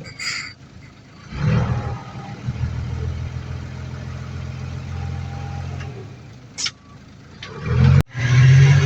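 Heavy diesel engine of earthmoving equipment running. It picks up about a second in and holds steady, eases off, then comes back louder near the end after a brief cut-out. A couple of short clicks are heard over it.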